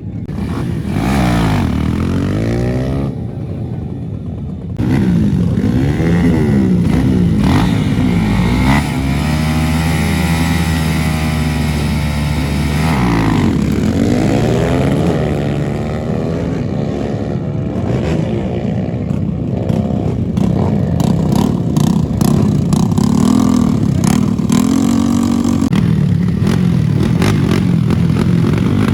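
Motorcycle engines revving hard, the pitch climbing and dropping over and over, with a steady held note for a few seconds in the middle.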